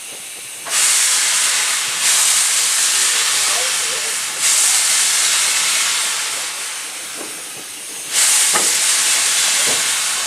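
Steam locomotive letting off steam: four loud hissing blasts, each starting suddenly and then slowly easing off, over a steady lower hiss.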